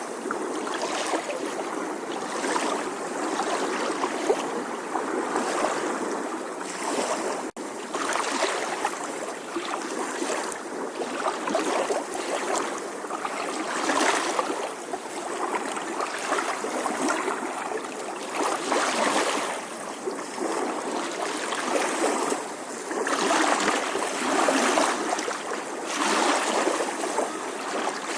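Gentle sea waves lapping and washing on a shore, with water gurgling and trickling, swelling and easing every second or two. There is a split-second gap in the sound about seven and a half seconds in.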